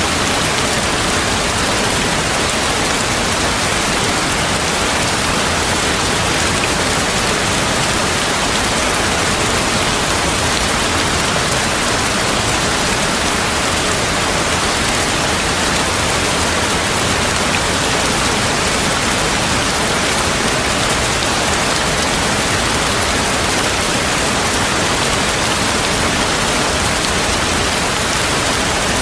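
Steady heavy rain, an even hiss with no break and no thunderclap.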